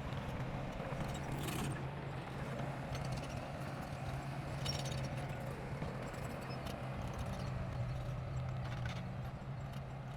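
Heavy construction machine's diesel engine running steadily, with a few sharp metallic clanks.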